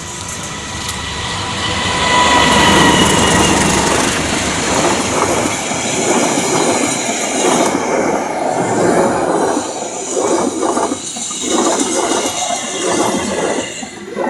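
A train passing close by, loud throughout, its level building over the first two seconds. Faint steady squealing tones sound in the first few seconds, and in the second half the wheels clatter over rail joints in repeated strokes.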